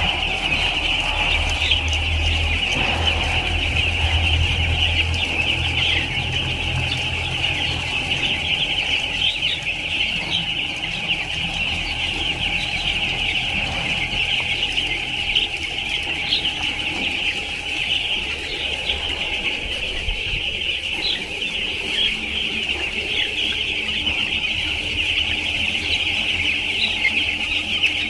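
A crowd of baby chicks peeping continuously, many short high cheeps overlapping into a dense chorus, with a low steady hum underneath.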